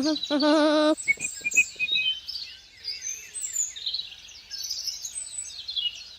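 Small birds chirping and twittering continuously, with a short wavering, bleat-like call about half a second in.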